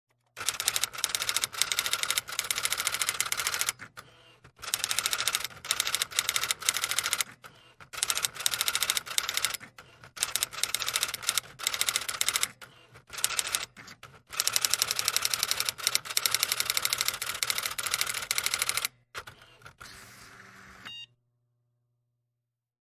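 Rapid mechanical clicking, fast enough that the strokes run together, in bursts of one to four seconds separated by short pauses. A low steady hum sits underneath, and the clicking stops about 21 seconds in.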